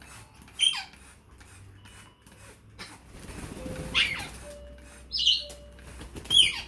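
African grey parrots calling: four short loud calls, each sliding down in pitch, with a softer rustling in the middle.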